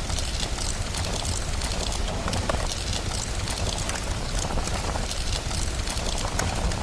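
Steady rain hiss mixed with the sharp snapping clicks of a crackling wood fire, over a constant low rumble.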